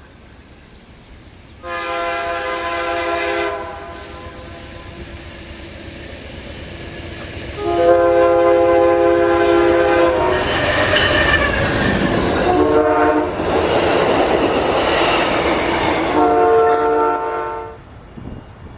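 Diesel locomotive's multi-chime air horn sounding two long blasts, one short and one long: the standard signal for a grade crossing. Under the later blasts the train's rumble and wheel noise grow loud as it passes, then fall away near the end.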